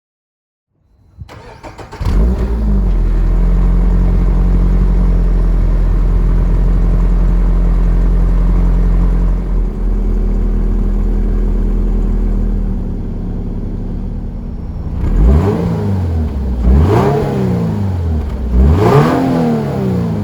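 Toyota GR86 / Subaru BRZ 2.4-litre flat-four engine on its stock muffler, started up, idling steadily, then blipped three times, each rev rising and falling quickly.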